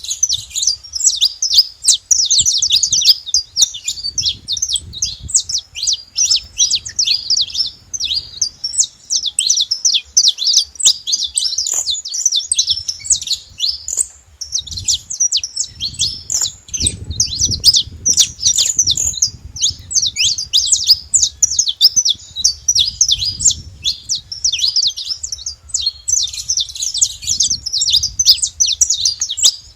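Saffron finch singing: long runs of rapid, sharp high chirps with brief pauses between phrases.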